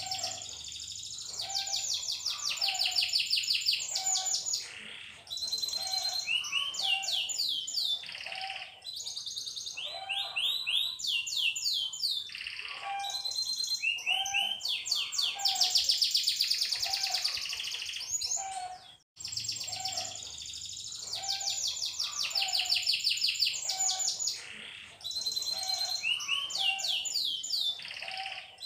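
Domestic canary singing a long song of rapid rolling trills and quick sweeping chirps, in long phrases with short pauses between them.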